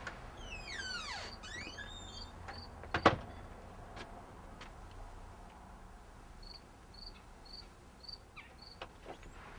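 Birds chirping, with falling whistled notes near the start and short high chirps repeating later, and a single sharp knock about three seconds in.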